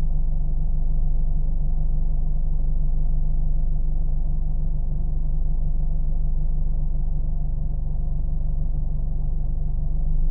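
Car engine running at a steady deep drone, with most of the sound low in the bass and nothing high-pitched, as in a long smooth drive.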